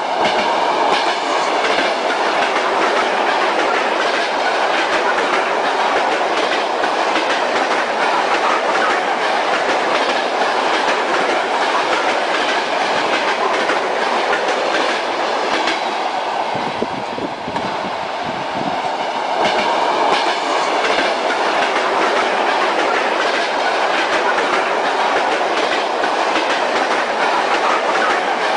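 Moving railway carriage: train wheels clattering rhythmically over the rail joints against a steady running rumble. About two-thirds of the way through it briefly turns quieter and deeper, then returns to the same clatter.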